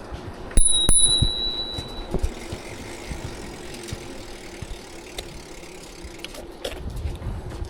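A bicycle bell struck twice about half a second in, ringing on clearly for over a second. After it, steady riding noise with small rattles and clicks.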